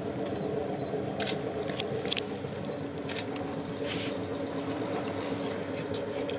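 A steady low mechanical hum with scattered short wet clicks and squelches, as elephant-dung pulp is stirred.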